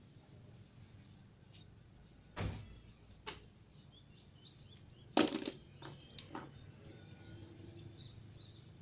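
A few light clicks and knocks from parts being handled during a repair, the loudest a short clatter about halfway through, over a low steady hum. Faint bird chirps in the background.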